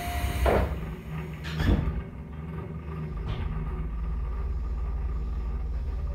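Onboard a Tobu 10000-series electric train (car MoHa 11201) stopped at a station: a steady buzzer tone stops just after the start, and two thumps follow, about half a second and a second and a half in. From about three seconds in, a steady low rumble builds as the train pulls away from the stop.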